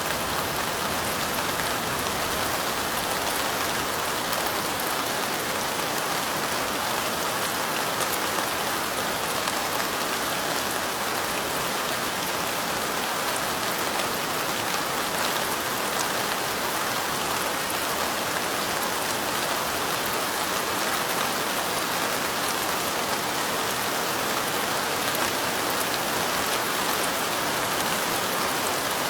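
Steady light rain: an even hiss with faint ticks of individual drops, unchanging throughout.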